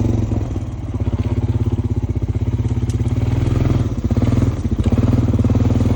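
Honda Foreman ES quad's single-cylinder engine running with an even, low pulse while being ridden, easing off briefly about four seconds in and then picking up again.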